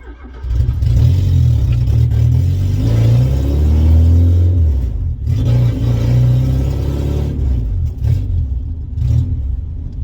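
Ford Pinto 1.6 four-cylinder engine in a Cortina P100 pickup, running loud through a temporarily welded-up exhaust. It comes up sharply about half a second in, then revs hard under load while driving, with a brief drop near the middle that fits a gear change.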